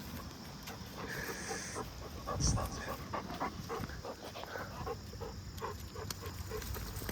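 Golden retriever whining in many short, repeated whimpers, with a single thump about two and a half seconds in.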